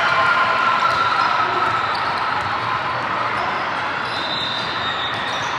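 Basketball game in a gym: a ball bouncing on the court over a steady din of voices.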